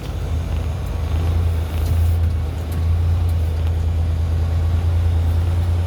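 Semi-truck being driven: a steady low engine drone with road noise, heard from inside the cab.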